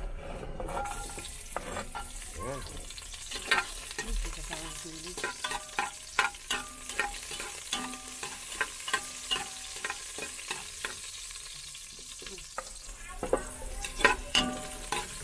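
Chopped garlic sizzling as it hits hot cooking oil in a pan, starting about a second in, while a spatula stirs it with frequent clicks and scrapes against the pan. It is the first step of a sauté.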